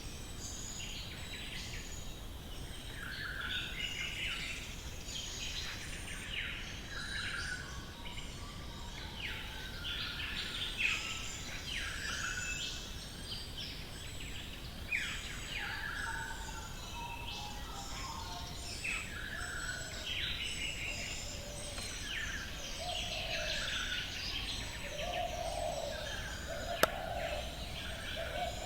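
Dawn chorus of several wild birds in the Australian bush: many short, overlapping chirps and whistled calls, with lower-pitched calls joining in near the end. One sharp click sounds shortly before the end over a steady low background hiss.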